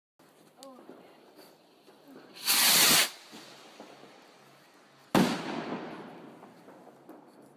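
Fireworks: a loud rushing hiss lasting about half a second, about two and a half seconds in, then a sudden bang just after five seconds whose sound fades away over the next two seconds.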